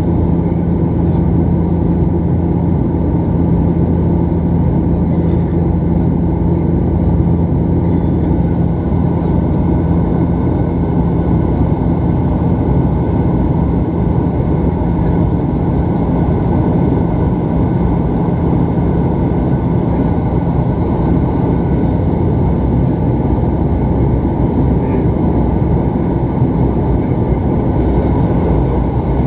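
Cabin noise aboard a Bombardier Dash 8 Q400 turboprop airliner in flight: the engines and propellers make a steady, loud drone with a constant low hum.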